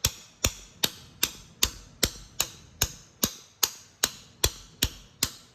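Steady metal hammer blows, about two and a half a second, each a sharp strike with a short ring. The hammering forces bread packed behind a stuck engine part, and the pressure pushes the part out.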